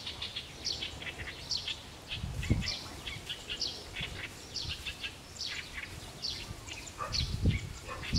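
Small birds chirping: many short, high, falling chirps, several a second. Low thuds come about two and a half seconds in and again near the end.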